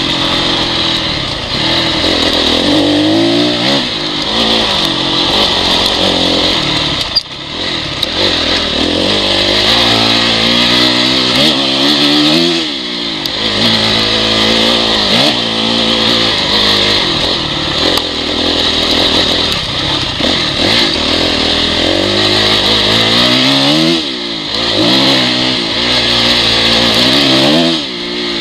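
Honda CRF four-stroke dirt bike engine under throttle on rough downhill terrain, its revs rising and falling again and again as the throttle is opened and closed. The engine note drops out sharply for a moment about seven seconds in.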